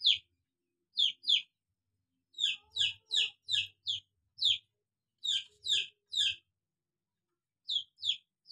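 A bird chirping: short, falling chirps in quick pairs and runs of four to six, with brief silent pauses between the runs.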